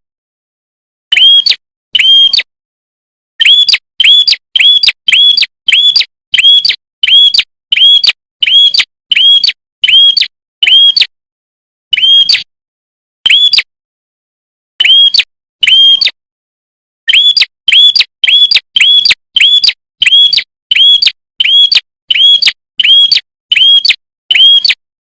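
Prinia (prenjak kepala merah) call: short, sharp, identical high notes repeated about two a second in runs broken by short pauses.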